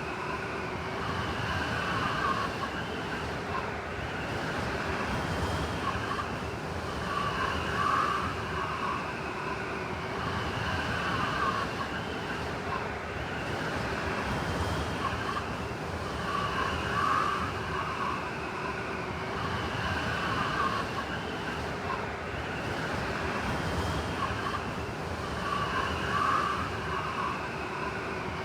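Blizzard wind blowing steadily, with gusts that swell and fade every few seconds and carry a whistling, howling tone.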